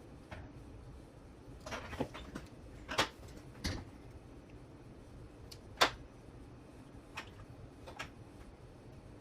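Small parts and tools being handled and set down on a workbench: a scatter of short clicks and knocks with a brief rustle about two seconds in, the sharpest click a little before six seconds in.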